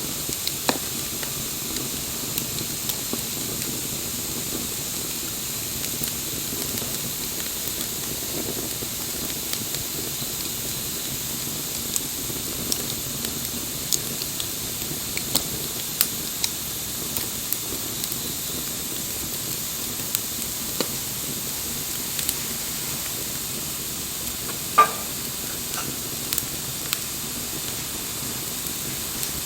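Wood campfire burning: a steady hiss with scattered sharp crackles, and one louder pop near the end.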